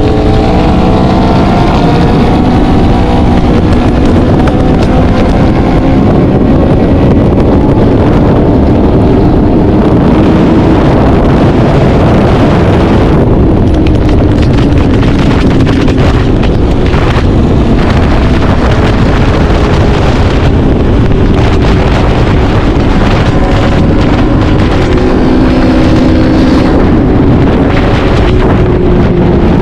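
BMW S1000 motorcycle's inline-four engine running at highway speed, with heavy wind buffeting on the microphone. The engine pitch falls over the first few seconds. Wind noise covers most of the middle, and a steadier engine note comes back near the end.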